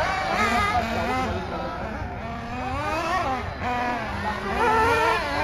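Several racing car engines revving and easing off, their pitches rising and falling and overlapping.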